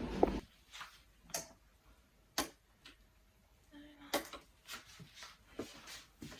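Light, irregular clicks and taps, as of small objects being handled and set down, about a dozen spread unevenly, with a brief pitched squeak or clink a little past halfway.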